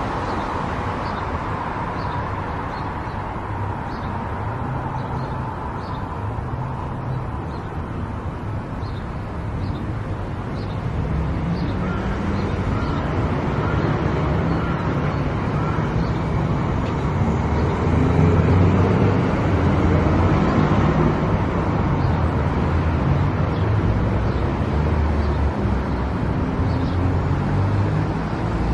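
Car driving on the road: steady engine and tyre noise, with faint regular ticking for the first dozen seconds. The noise grows louder about a third of the way through.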